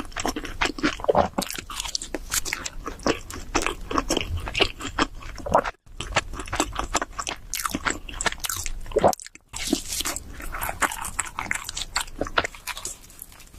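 Close-miked eating of cheese seafood pizza: crunchy bites and steady, wet chewing, with dense irregular crackles. The sound cuts out for a moment twice, about 6 and 9 seconds in.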